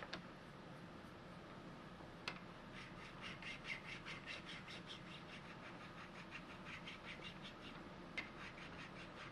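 Flat file rasping over the edges of a freshly milled steel part in quick, repeated light strokes to remove burrs, after a few sharp clicks of the part or file being handled.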